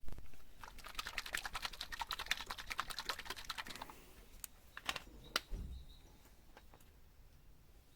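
A rapid run of sharp clicks lasting about three seconds, followed by a few separate clicks and a soft thump.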